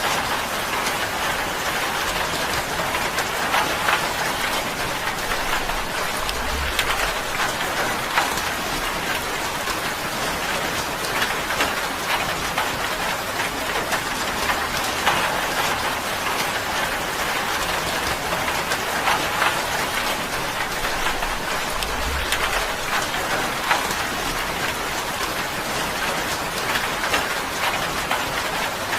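Steady rain falling on a tin roof: an even hiss made of many separate drop taps on the metal.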